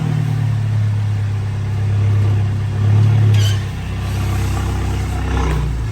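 A vehicle engine running close by, swelling and revving up a little about halfway through, then settling back to a steady hum.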